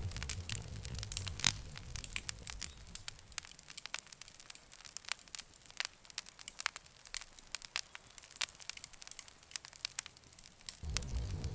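Campfire crackling, with frequent sharp pops and snaps at irregular intervals. A low rumble under the crackle fades out a few seconds in and comes back near the end.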